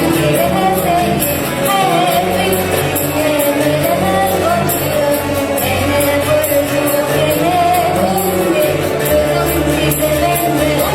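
Choir singing an Arabic hymn over instrumental backing with a sustained bass line and a steady beat.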